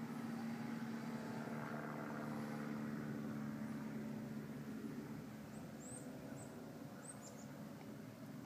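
A steady engine hum that fades after about five seconds, with a few short, high bird chirps in the second half.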